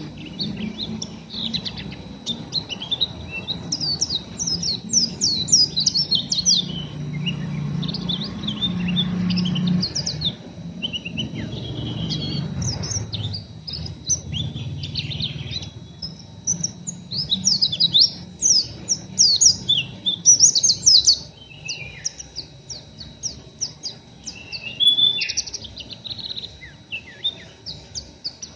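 White-eye (pleci) twittering in fast, rough bursts of quick high chirps: the harsh 'ngeriwik' chatter of a raw, still-untrained bird. A low hum runs underneath and fades about ten seconds in.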